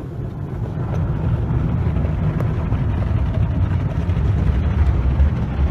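Tunnel car wash machinery, its spraying and brushes, heard from inside a car going through it: a steady low rumble with a haze of spray noise that grows a little louder about a second in.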